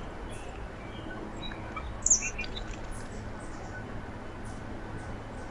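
Small songbirds calling at a backyard feeder: one loud, sharp chirp about two seconds in, over faint high chips scattered throughout.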